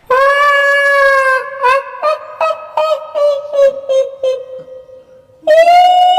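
High-pitched woman's voice doing the shrill laugh of a kuntilanak ghost: a long held wail, then a string of short giggling pulses that fade away, and another long wail near the end.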